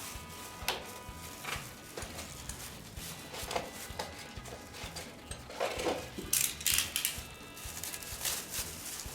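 Scattered clicks, knocks and scrapes of hard parts being handled, over faint background music.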